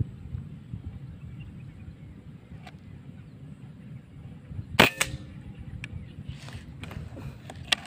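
A single sharp crack of an air rifle shot about five seconds in, over a low rumbling background, followed by a few fainter clicks and several sharp clicks near the end.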